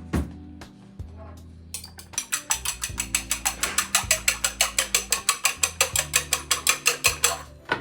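Fast, even clicking, about six clicks a second, starting about two seconds in and stopping near the end, over background music.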